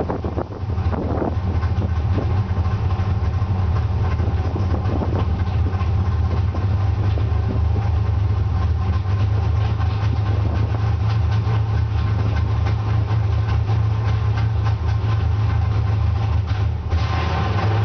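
Fuel-injected Hemi engine idling steadily; about a second before the end it begins to rev up.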